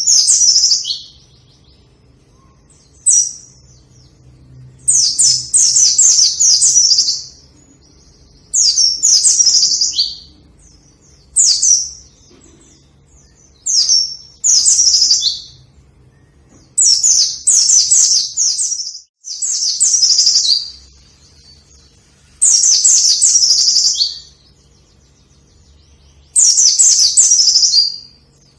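White-eye (pleci) singing: bursts of rapid, high-pitched chirping notes, each one to two seconds long, repeated with short pauses between them.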